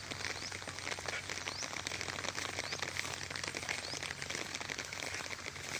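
Steady patter of light rain, a dense crackle of small drops, with a few faint short rising chirps.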